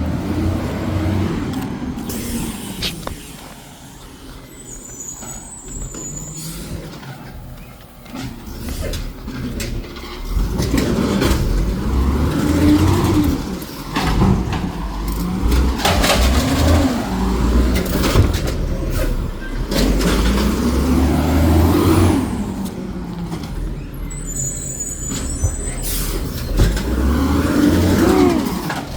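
Garbage truck's diesel engine revving hard several times, its pitch rising and falling, as it powers the hydraulic packer compacting trash. A short high-pitched hiss comes about five seconds in and again near the end.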